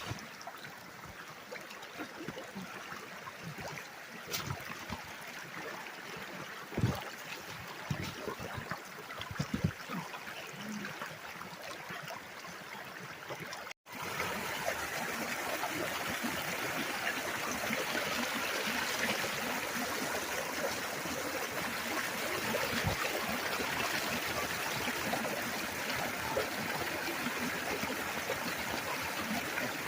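Running water of a stream: a softer trickle with a few sharp ticks at first, then, about 14 s in, an abrupt switch to a louder, steady rush of flowing water.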